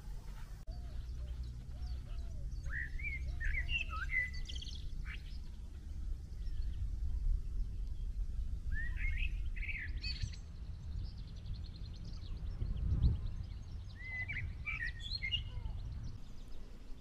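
Small birds chirping and twittering in three short bursts over a steady low rumble.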